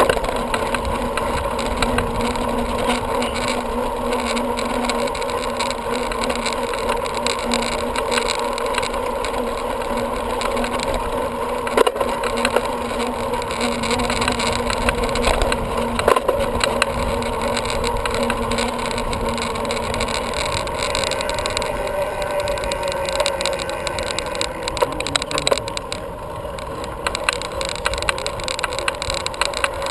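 Steady riding noise from a bicycle in motion: wind on the microphone and tyres on the trail, with a low hum that fades out about two-thirds through and a few sharp clicks or knocks.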